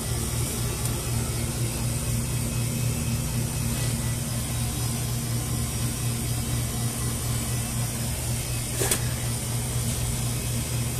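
A steady low hum of running machinery that does not change throughout, with one sharp click about nine seconds in.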